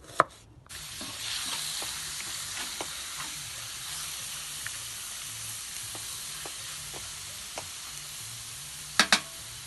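Cubes of pork frying in oil in a cast-iron kazan, a steady sizzle with small spattering ticks that starts suddenly within the first second. Two sharp knocks come near the end.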